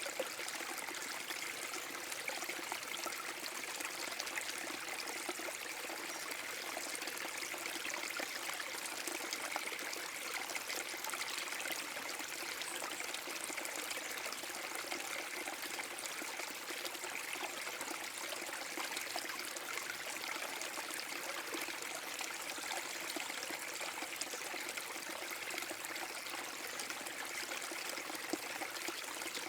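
Small forest brook waterfall: water pouring and trickling over rocks in a steady, unbroken splashing rush.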